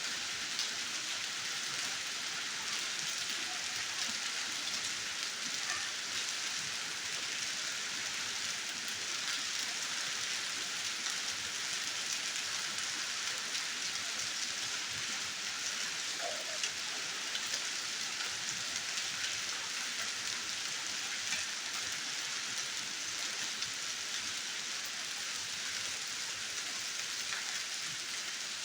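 Heavy rain mixed with hail falling steadily: a dense even hiss with many small ticks of drops and hailstones striking surfaces.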